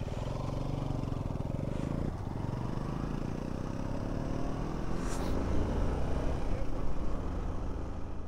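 Single-cylinder motorcycle engines pulling away from a stop and accelerating, the engine note and wind rush growing louder over the first several seconds.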